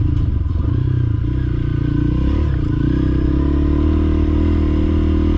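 Honda CRF300L dirt bike's single-cylinder four-stroke engine running under load on a steep, loose climb. The engine note wavers about two seconds in, then holds steady.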